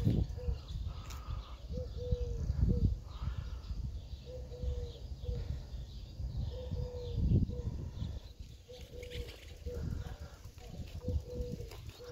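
A bird repeating a low call of two or three notes, the middle note longest, about every two seconds, over uneven low rumbling noise on the microphone.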